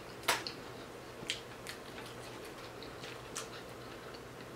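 Close-miked eating: a few sharp, crisp chewing clicks and crunches, the loudest about a quarter of a second in and fainter ones scattered after.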